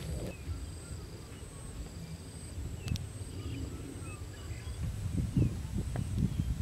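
Outdoor ambience: a steady high insect buzz with a pulsing trill, small scattered bird chirps, and low rustling and knocks that grow louder in the second half.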